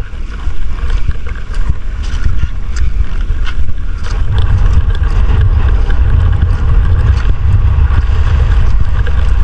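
Strong wind buffeting the microphone: a loud, low rumble that grows heavier from about four seconds in, as when riding fast in open air on a very windy day.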